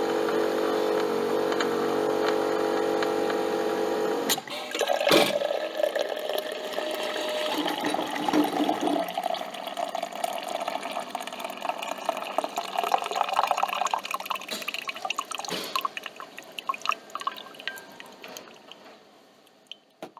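Coffee machine's pump running with a steady hum, then stopping about four seconds in, with a click just after. Liquid then drips and trickles, slowly fading away.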